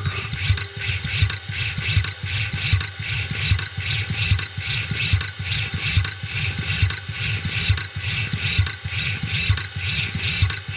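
CNC machining centre milling a brass part, the cutter and spindle running with a regular pulsing of about two to three beats a second.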